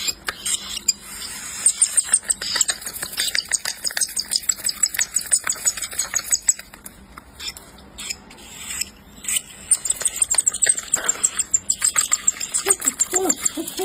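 Eighteen-day-old baby parrot chicks giving rapid, high-pitched chirping calls in two long runs, over many soft clicks and taps.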